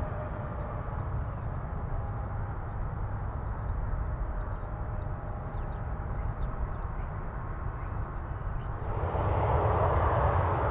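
Jet airliner engine noise, a steady rush and low rumble that grows louder about nine seconds in.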